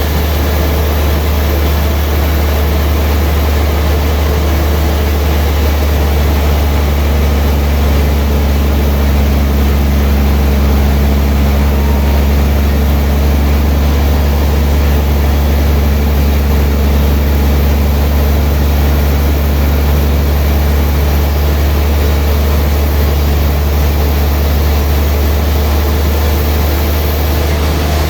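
Sawmill machinery running steadily, a loud low hum with a wash of mechanical noise over it.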